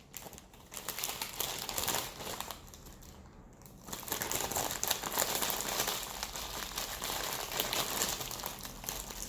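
Plastic candy bag crinkling and rustling as it is handled, with a short lull about three seconds in before the crinkling picks up again.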